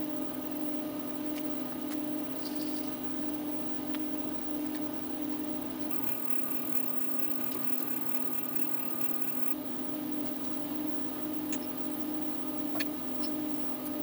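CNC mill running an engraving pass with a spring-loaded carbide engraving tool: a steady machine hum that pulses slightly. For a few seconds in the middle, a rapid chatter of higher tones comes in, with a few faint clicks near the end.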